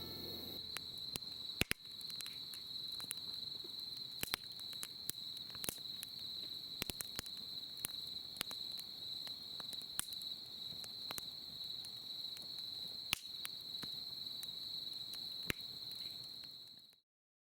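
Crickets chirping in a steady, high-pitched trill, with scattered sharp crackles of a campfire, all cutting off suddenly near the end.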